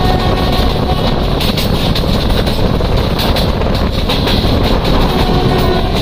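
Passenger coaches running close by on the adjacent track, heard from the window of a moving train: a steady loud rumble with rapid clattering of steel wheels over the rails, mixed with the running noise of the train being ridden in.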